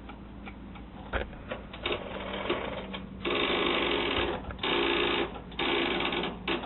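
Electric starter cranking the Tecumseh TVM220 engine of a 1980 Sears LT10 lawn tractor in three short bursts, without the engine catching. This is a cold start after months of sitting, on a battery too weak to start it. A few light clicks come before the cranking.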